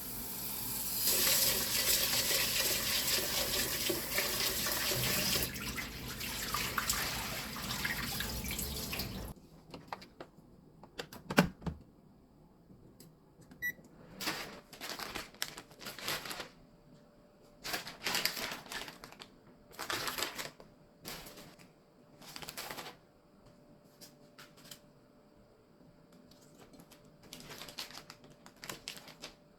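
Kitchen tap running into a sink for about nine seconds, then turned off abruptly. After that comes a sharp clack, then a series of short, intermittent rustling and clattering sounds of kitchen handling.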